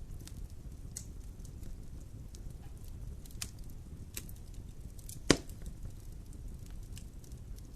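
Fire burning in a fireplace: scattered crackles and snaps over a low rumble of the flames, with one loud pop about five seconds in.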